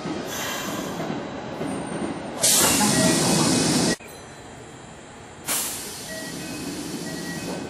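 Kintetsu Series 3200 electric train rolling to a stop at the platform, with a loud burst of compressed-air hiss from its brakes about two and a half seconds in that cuts off sharply after about a second and a half, then a second, quieter hiss that fades near the end.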